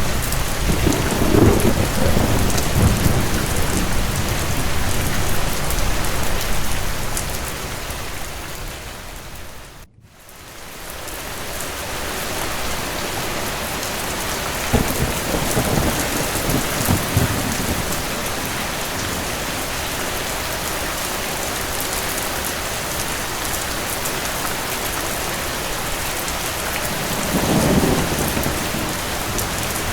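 Steady rain with low rolling thunder rumbling three times. About ten seconds in, the rain fades out to near silence for a moment and fades back in.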